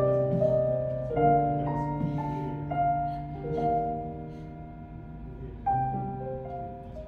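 Keyboard with a piano sound playing slow, held chords that change every second or two, with a few melody notes on top.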